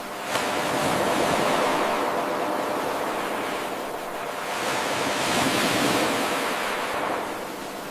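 Ocean waves washing ashore in two slow swells, a steady rush of surf between them. About half a second in there is a brief sharp onset where the eight-second wave loop restarts.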